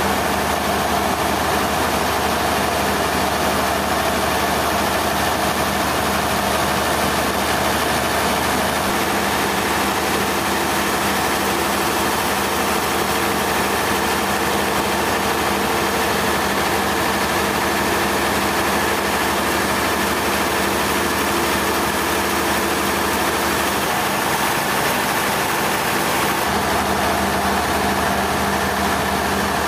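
Sawmill machinery running steadily: an even mechanical drone with a few constant tones and no change in level.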